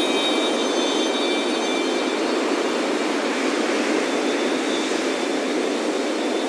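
Steady rush of ocean surf breaking on a beach, with wind chimes ringing high and clear at the start and fading out within about two seconds, then faintly again later.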